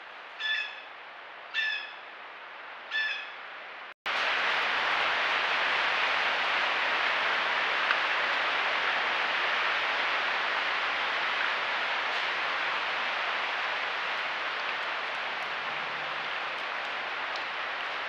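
A bird gives three short calls about a second apart. Then, after a brief cutout, a steady rushing noise follows, with a faint click now and then.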